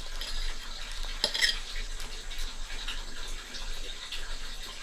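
A spoon clinking and scraping against a bowl as food is scooped, with a sharper clink about a second in.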